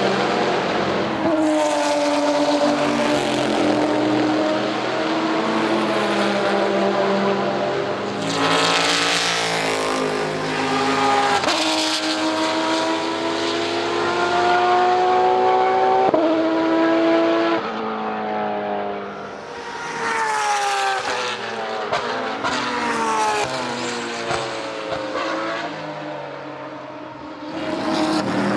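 Porsche 911 GT3 RSR race car's flat-six engine at full throttle, its pitch climbing through the gears with a sudden drop at each upshift. Midway the pitch falls through several steps as it slows and downshifts, then climbs again near the end.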